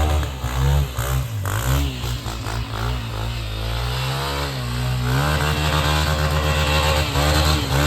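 Dirt bike engine revving, its pitch rising and falling over and over, then held at higher, steady revs from about five seconds in.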